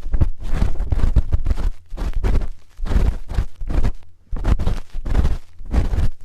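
Close-miked scraping and rubbing from a spoon ear pick working inside a microphone's ear, the sound of ASMR ear cleaning. It comes in quick, irregular strokes, each with a deep rumble and a scratchy hiss.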